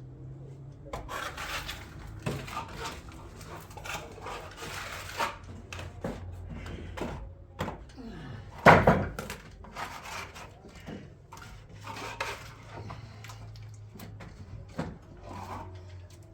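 Knocks and clatter of things being handled, with one loud knock about nine seconds in and low voices now and then.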